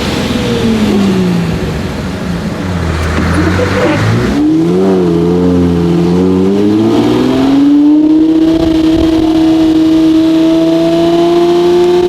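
Lamborghini Murcielago LP640's V12 engine running through a straight-piped Fi Exhaust: the revs fall over the first two seconds, stay low, then pick up again about four seconds in and keep climbing slowly as the car accelerates.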